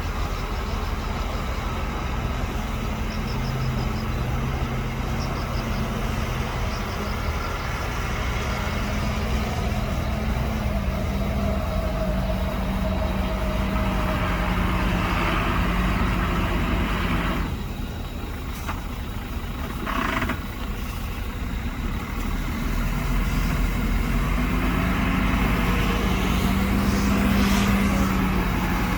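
Bulldozer diesel engine working under load, its pitch rising and falling as it pushes. It eases off about two-thirds of the way in, then picks up again.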